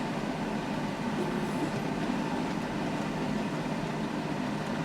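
John Deere tractor's engine pulling a power harrow through wet ground, a steady rumbling, rattling drone.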